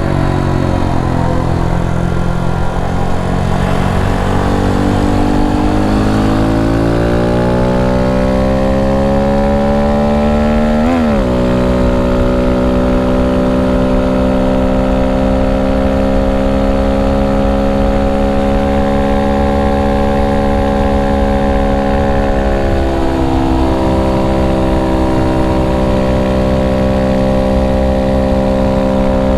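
Honda Monkey 125's single-cylinder four-stroke engine under way, heard from on the bike. Its pitch climbs steadily for about ten seconds under acceleration, drops sharply about eleven seconds in at an upshift, then holds steady at cruising speed, easing down a little near the two-thirds mark.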